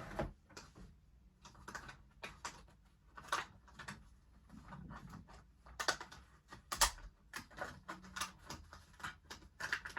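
Irregular plastic clicks and taps from a toy figure and vehicle being handled, a dozen or more sharp ticks at uneven spacing, the loudest two a little after the middle.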